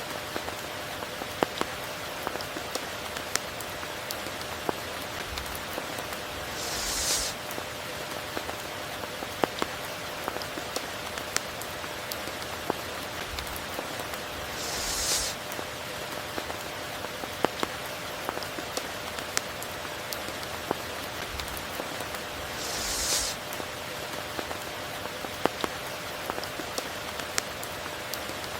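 Steady tropical rain, with sharp drops ticking on a near surface and a brief hissing swell three times, about eight seconds apart.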